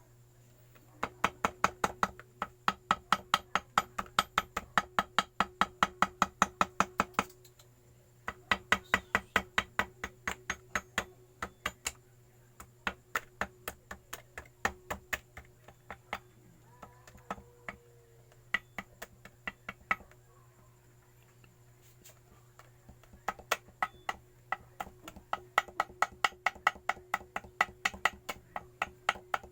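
Quick, light hammer taps, about five a second, in long runs with sparser taps between them: gasket paper being tapped out against the edge of a motorcycle engine case to cut the homemade gasket.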